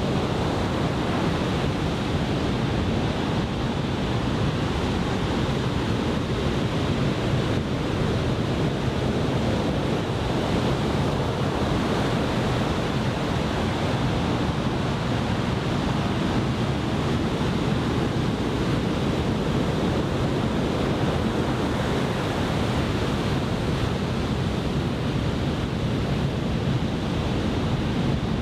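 Steady, continuous noise of heavy surf from a typhoon swell breaking along a beach, mixed with wind on the microphone.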